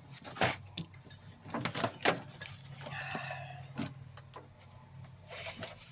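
Scattered knocks, clicks and rattles of a MIG welder and its power cable being handled and moved, with a brief scrape about halfway through over a faint steady hum.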